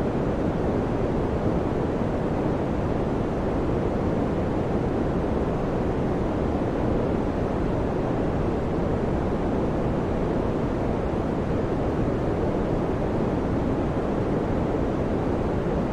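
An electric fan running steadily, giving a constant low, muffled whooshing noise with no changes or distinct tones.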